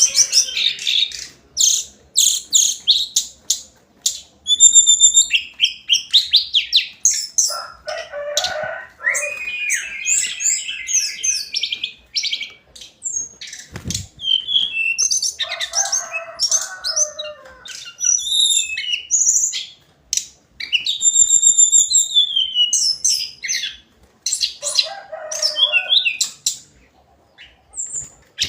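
Hill Blue-flycatcher singing: a varied run of whistled phrases, fast trills and high chips, broken by short pauses. A single dull thump comes about halfway through.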